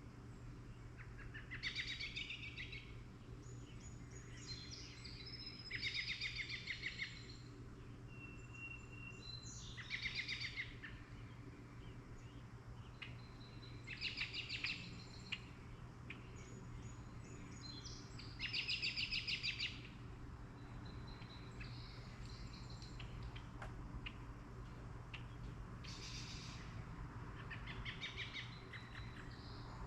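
Songbirds singing short rapid trilled phrases, each about a second long, repeated every few seconds over a steady low hum.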